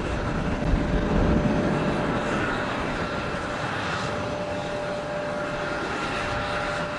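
Jet airliner engines: a steady rush with a high, steady whine over it, loudest about a second in and then slowly easing off.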